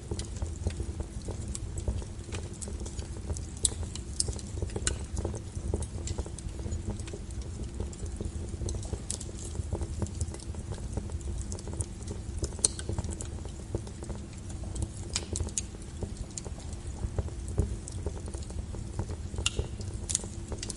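Log fire burning, with a steady low rumble and frequent sharp crackles and pops scattered throughout.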